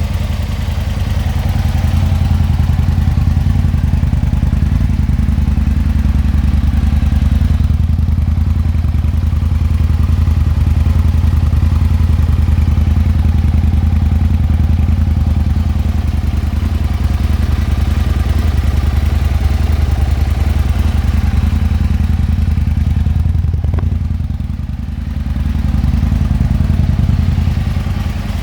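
Aprilia Tuono 1000 R's 1000cc V-twin engine running steadily at an even, low speed, with a brief dip in loudness about 24 seconds in.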